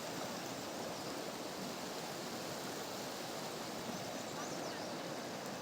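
River water rushing past, a steady even hiss with no breaks.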